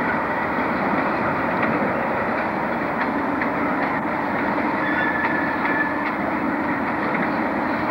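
A train passing along the line: a steady rumble and rush of wheels on rails, with faint irregular clicks from the track.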